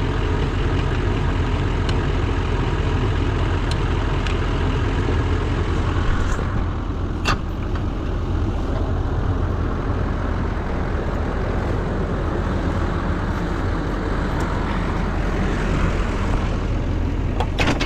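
Pickup truck engine idling steadily, with a single sharp click about seven seconds in and a few light clicks near the end.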